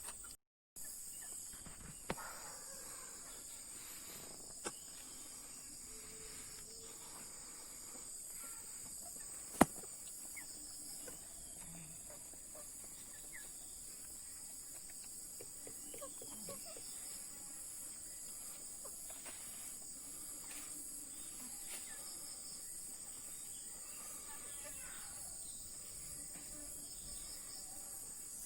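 Steady high-pitched insect chorus, a continuous trilling background, broken by a few sharp clicks, the loudest about ten seconds in.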